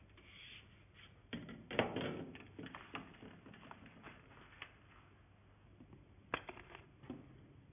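Vacuum cleaner parts being handled and taken apart: a cluster of clicks and knocks about one to three seconds in, then a couple of single sharp clicks near the end.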